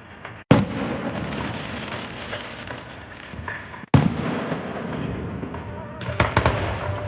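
Fireworks bursting overhead: two loud booms about three and a half seconds apart, each followed by a long crackling rumble, then a quick run of sharp cracks near the end.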